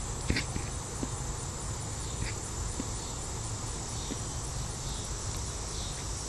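Crickets and other night insects chirping steadily in a high, continuous chorus, over a low steady rumble, with a few faint clicks.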